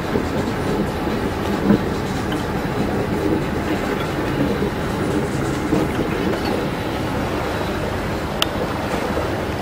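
Steady mechanical rumble of a running vehicle, with one short sharp click about eight seconds in.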